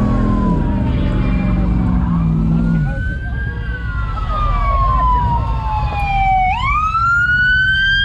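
Police car siren wailing, its pitch sliding slowly up and down, then sweeping sharply up about six and a half seconds in. A vehicle engine runs underneath, dropping in pitch about three seconds in.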